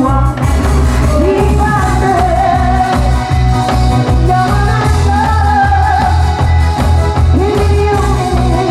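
A singer performing over a loud backing track with a steady, heavy bass beat.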